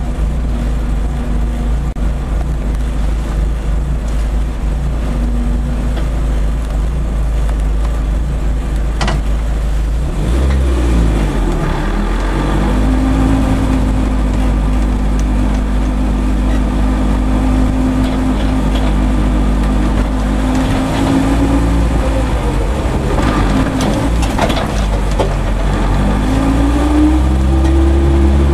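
BMW E30 M3's four-cylinder engine heard from inside the cabin, running at low revs as the car rolls slowly. The pitch holds steady for long stretches, dips and rises twice with the changes of speed, and climbs steadily near the end as the car accelerates.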